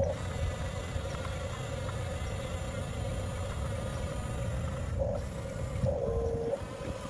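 Small electric drive motors and gearboxes of a 1/14-scale Huina RC bulldozer whining with a steady buzz over a low rumble. A second motor cuts in briefly about five seconds in and again about six seconds in, dipping slightly in pitch.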